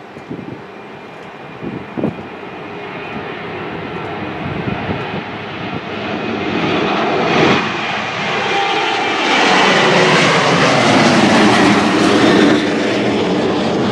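Airplane engines growing steadily louder as the aircraft approaches, loudest from about nine seconds in.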